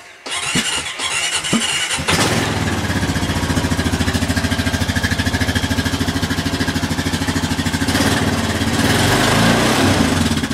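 Honda Rancher ES ATV's single-cylinder four-stroke engine on a cold start after a week unused: about two seconds of electric-starter cranking, then it catches and settles into a steady, evenly pulsing idle.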